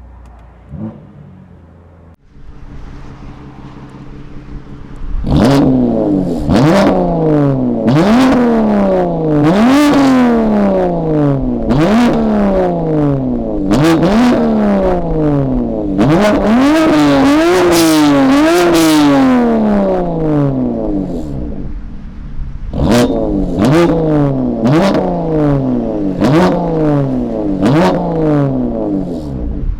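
BMW S55 twin-turbo straight-six, with resonated catless downpipes and an equal-length midpipe, revved over and over. Each blip rises sharply in pitch and falls away over about a second, with a short break about two-thirds of the way through.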